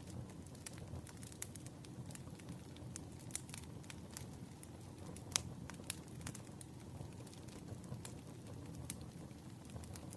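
Firewood burning in a campfire, crackling with scattered sharp pops, the loudest about five seconds in, over a steady low rumble.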